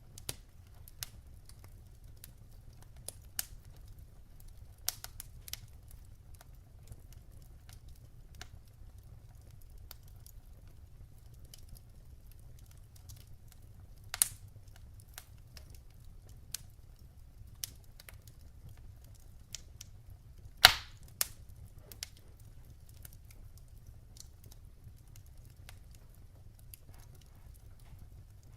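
Wood fire burning, with irregular crackles and pops over a low steady rumble; the loudest snaps come about 14 and 21 seconds in.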